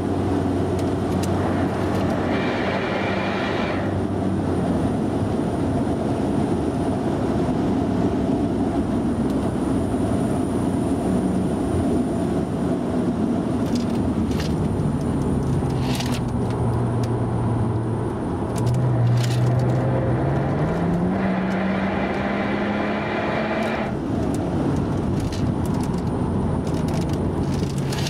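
Mercedes-AMG car's engine heard from inside the cabin at track speed over road and wind noise. The engine note holds fairly steady, climbs in pitch under acceleration about two-thirds of the way through, holds, then falls away and starts rising again at the very end.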